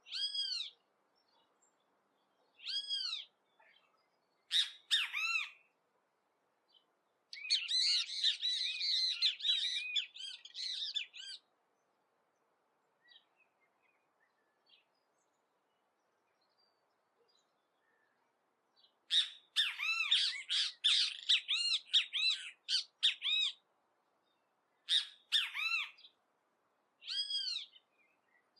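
Great kiskadee (bem-te-vi) calling. Loud single arched call notes come a few seconds apart, and two runs of rapid excited chattering each last about four seconds, the first about seven seconds in and the second about nineteen seconds in, with a quiet pause between them.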